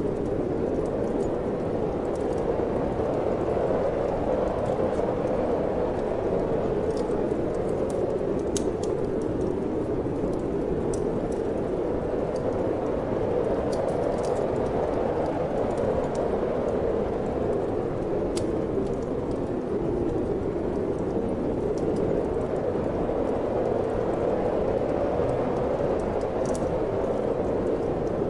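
Steady wind blowing in slow swells, with scattered sharp crackles and pops from a wood fire burning in a fireplace.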